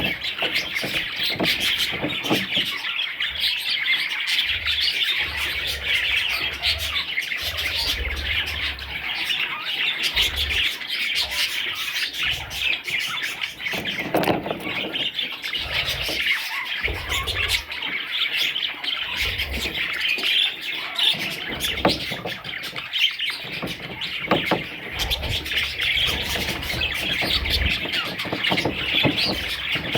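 A group of young budgerigars chirping and chattering continuously, many high, quick calls overlapping without a break.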